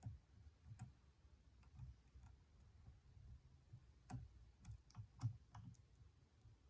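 Faint, irregular clicks of a lock pick working the pins inside a Stanley padlock, with a cluster of sharper ticks about four to five and a half seconds in.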